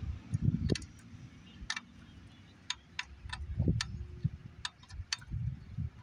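Flexible-head ratcheting gear wrench clicking as it is worked in short strokes, sharp single clicks roughly twice a second at uneven spacing, with low knocks from the tool and parts being handled.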